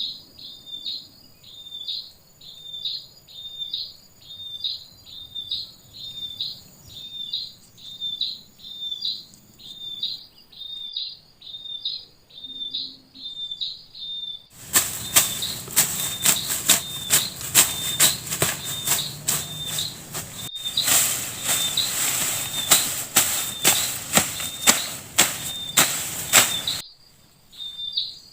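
A high chirp repeated steadily, about one and a half calls a second. About halfway through, a loud crackling noise with many sharp clicks starts suddenly and covers it for about twelve seconds, then cuts off.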